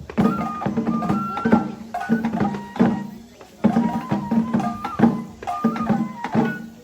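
Japanese festival music for a lion dance: a flute melody of held notes over repeated drum strikes. It comes in phrases, with a short break about halfway through.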